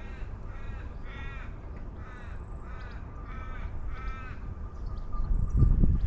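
A crow cawing repeatedly, about eight short calls at roughly two a second, over a steady low outdoor rumble. Near the end there are a few loud, low thumps.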